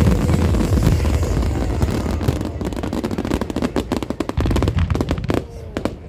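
Fireworks display: a low rumble of bursts, then many rapid, irregular crackling pops, as from crackle-effect shells.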